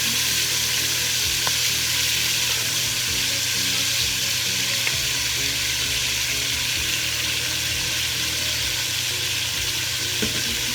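Marinated chicken leg pieces frying in hot cooking oil: a steady sizzle.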